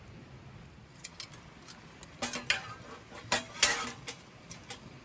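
A few light clicks, then a run of short clattering knocks: eating utensils handled against a plate or cookware during a meal.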